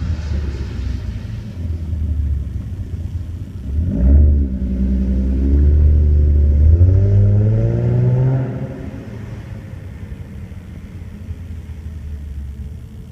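2014 Ford Mustang 3.7-litre V6 running through its exhaust: a quick rev about four seconds in, then the engine pulls with pitch rising steadily for several seconds before easing off and dropping back to a lower rumble.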